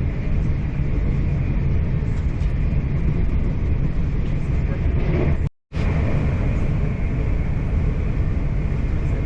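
Steady rumble of a passenger train running along the track, heard from inside the carriage. The sound cuts out for a split second about halfway through.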